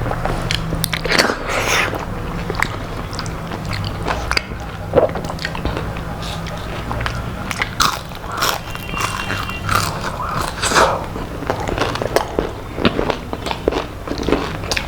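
A person chewing and crunching crispy fried food close to the microphone, with many irregular crisp crunches and bites.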